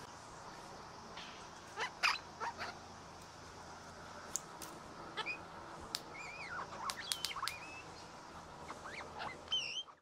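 Bird chirps and short whistled calls, scattered and irregular, with a few sharp clicks; the calls come thicker in the second half, ending with a clear two-note call.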